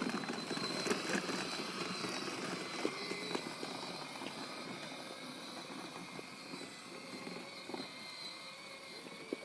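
Electric motor of a ride-on toy car whining steadily as it drives, with light clicks and rattles, growing fainter as it moves away.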